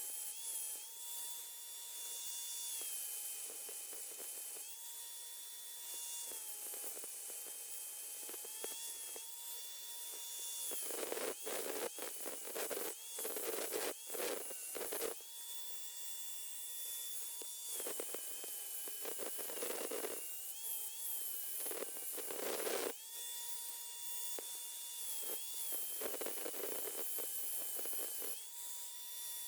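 A small high-speed grinder whining steadily, its pitch dipping as it is pressed into metal, with rough grinding noise in several stretches as it cuts and smooths the metal.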